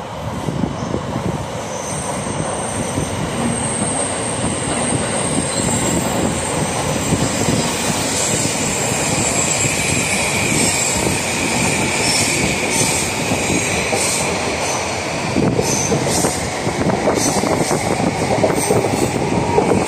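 An E2 series Shinkansen passing without stopping: a steady rumble of wheels on rail that builds as the train draws alongside. A high whine runs through the middle, and rail-joint clicks come near the end.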